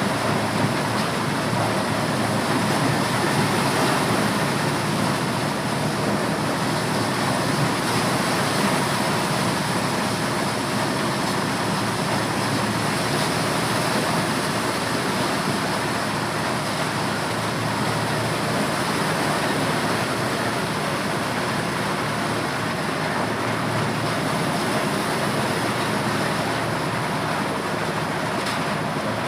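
Corn sheller machine running steadily while shelling corn, a dense, even mechanical noise without pauses.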